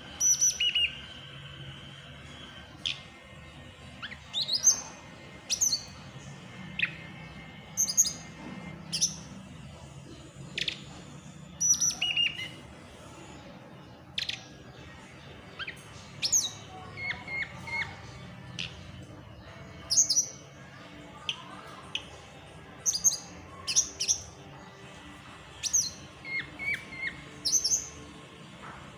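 Tledekan gunung songbird calling in quick, sharp chirps and short sweeping whistles, a burst every second or so: a lure recording meant to set a silent bird singing.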